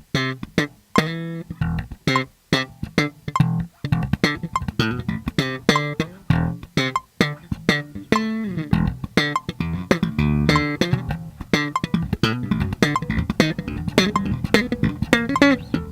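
Bass guitar played in a steady groove of short plucked notes over low bass tones, practising time against a metronome set to click the backbeat.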